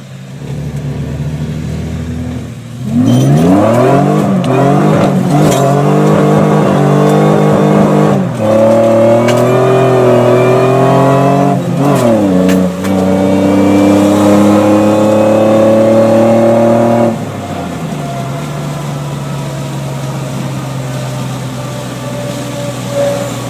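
Eaton-supercharged Nissan Pathfinder WD21 3.0-litre V6 idling, then revved up about three seconds in and held at high revs with two brief dips, before dropping back to a steady idle about seventeen seconds in.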